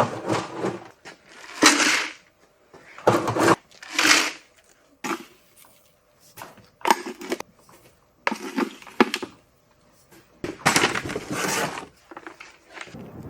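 A series of short, irregular rattling and rustling handling noises, about a dozen, with quiet gaps between them, as oats are scooped and poured for the horses' feed.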